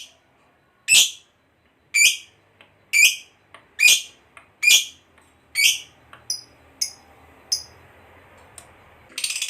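Lovebird calling: loud, shrill single chirps about once a second, then a few shorter, softer ones. A fast, continuous chattering starts right at the end.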